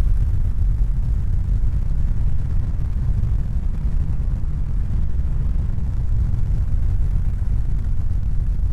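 A steady, loud low rumble: an even noise heaviest in the bass, with no distinct strokes, rhythm or pitch.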